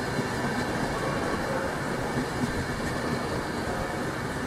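A train running through the station, a steady rumbling noise with a faint low hum that holds even throughout.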